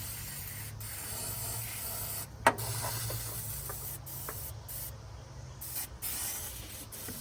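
Aerosol can of engine degreaser spraying in long hissing bursts with short breaks between them. A sharp click comes about two and a half seconds in.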